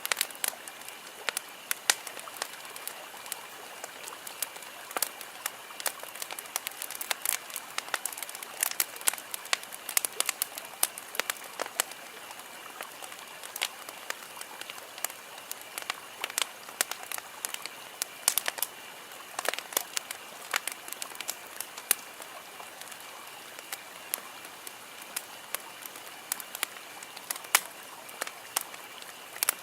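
Wood campfire burning with dense, irregular crackling and sharp pops from the burning logs.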